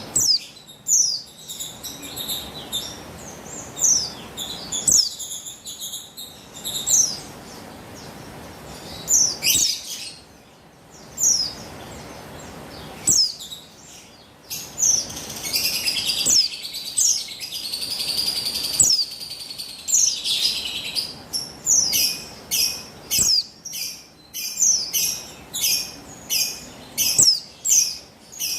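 Female buxtoni white-eye (pleci) calling: repeated short, high chirps that fall in pitch. A denser twittering stretch comes in the middle, then a quick run of chirps at about two a second near the end.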